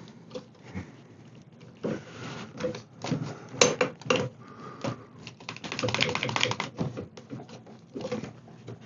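A clamp being fitted and tightened on a freshly hide-glued chair joint: a run of irregular clicks and knocks, densest about six seconds in.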